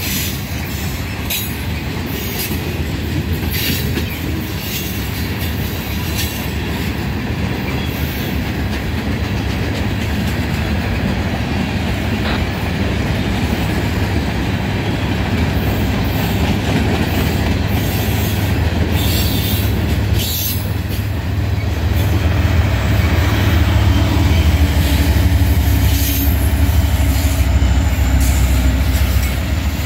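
Freight train rolling past close by: steel wheels clacking over the rail joints. Over the last ten seconds or so a deep diesel rumble builds as the mid-train distributed-power locomotives, a Norfolk Southern SD70ACE and ES40DC, come alongside.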